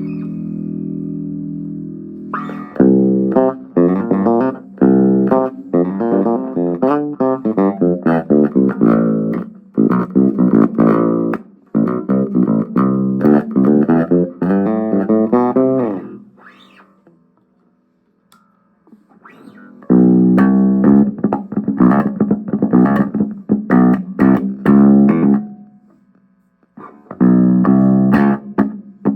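Danelectro '63 electric bass guitar being played: a held note, then quick runs of plucked notes that stop twice for a few seconds before starting again.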